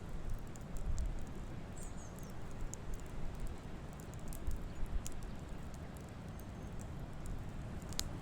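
Wood fire crackling: scattered small, sharp pops, with one louder pop near the end, over a low steady rumble.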